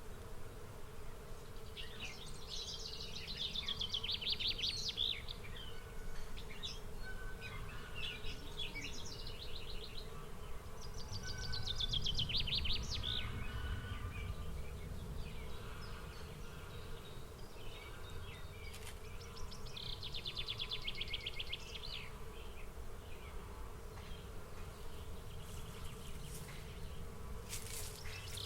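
Outdoor nature ambience: short, high, rapid trills repeat every few seconds over a low, steady rumble.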